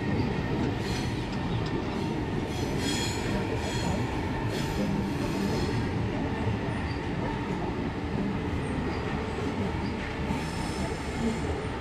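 Double-deck electric suburban train running out along the tracks with a steady rumble, its wheels squealing in short high-pitched bouts about a second in, again around three to five seconds, and near the end.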